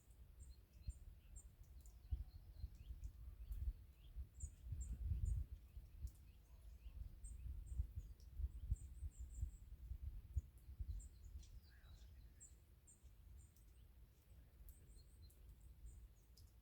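Small birds chirping: short runs of very high, thin notes repeated throughout, over a faint, uneven low rumble.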